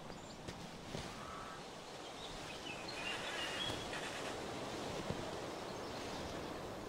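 Steady outdoor background noise, with a few short high chirps about three to four seconds in.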